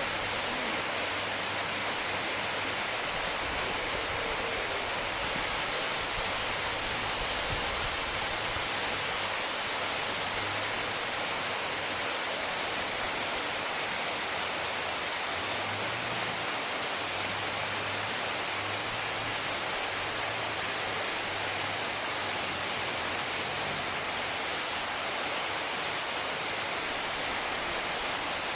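Waterfall: a steady, even rush of falling water, bright and hissy.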